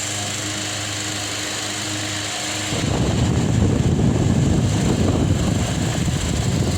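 Delta Gold 50 cm four-blade wall fan running with a steady motor hum. About three seconds in, a louder low rumble of the fan's airflow buffeting the microphone covers the hum until the end.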